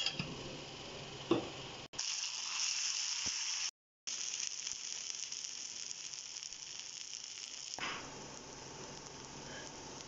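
Masala-coated raw banana (vazhakkai) slices sizzling in oil on a tawa: a steady frying hiss, briefly cut off near the middle, that drops to a quieter sizzle near the end. A single knock comes about a second in.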